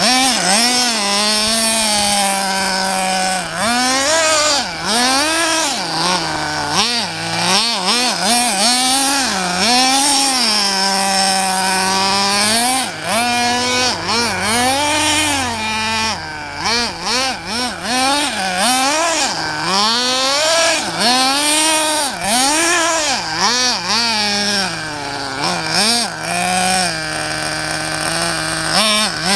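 RC buggy's motor revving up and down again and again in quick throttle bursts, now and then held at a steady pitch for a second or two.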